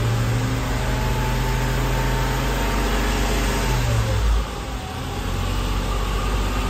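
1991 Porsche 964's air-cooled flat-six idling steadily on its first start after a long-block rebuild. About four seconds in, its note dips and quietens a little.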